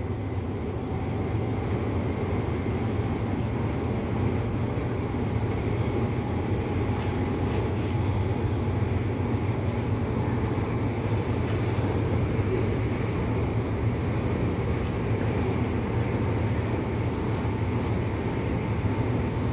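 Cabin running noise of an MTR Tung Chung Line CAF electric train travelling at speed: a steady low rumble of wheels on track with a faint, even whine.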